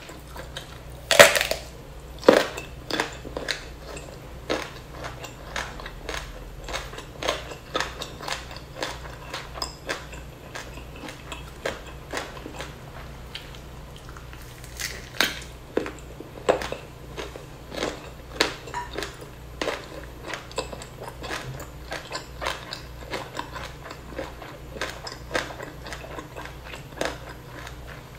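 A person chewing and biting food close to a clip-on microphone, with irregular crisp crunches of a raw lalapan vegetable eaten alongside spicy duck and rice; the sharpest crunch comes about a second in.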